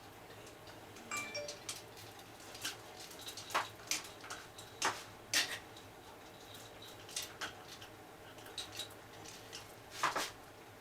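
Light, irregular metallic clinks and clicks as a new motorcycle timing chain is handled and fed onto the cam sprockets of a Suzuki Djebel 250 engine. The two loudest clinks come about halfway through and near the end.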